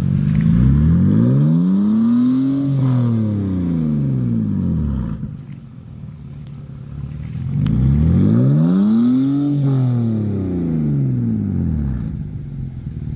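BMW 328i engine revved twice through a Black Widow Neighbor Hater aftermarket muffler that replaces the cut-out resonator, each time climbing in pitch and falling back over a few seconds.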